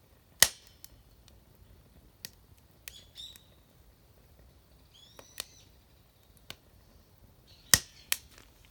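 A few sharp cracks and clicks, two loud ones about half a second in and near the end, with short chirping bird calls around three and five seconds in.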